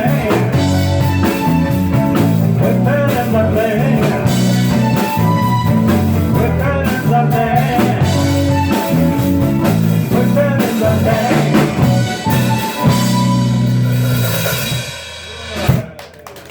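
Live band with drum kit, bass and guitar playing the closing bars of a song. The music dies away about fifteen seconds in, with a last short accent just before the end.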